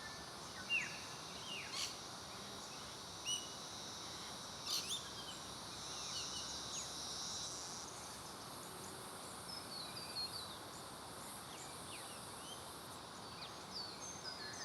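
Natural outdoor ambience: scattered short, downward-sweeping bird chirps over a steady high insect drone.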